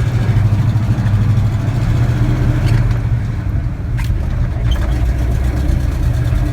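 1983 Chevy K10 4x4 pickup driving in four-wheel drive: a steady low engine and drivetrain drone, with a couple of light clicks about three and four seconds in.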